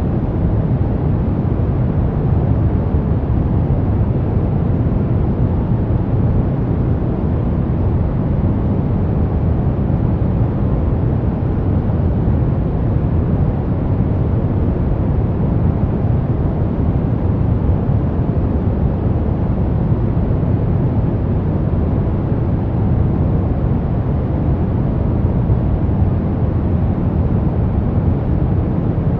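Brown noise: a steady, even rumbling hiss weighted toward the low end, with no changes or events.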